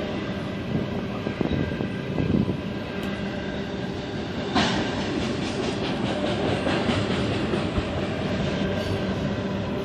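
Union Pacific intermodal freight train's cars rolling past, steel wheels clacking over rail joints. There is a sharp metallic clank about four and a half seconds in, followed by a run of evenly spaced clicks.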